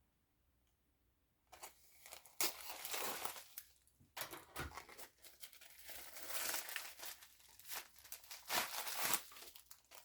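A shipping package being opened by hand: after about a second and a half of quiet, the packaging crinkles and tears in a run of short rips and rustles.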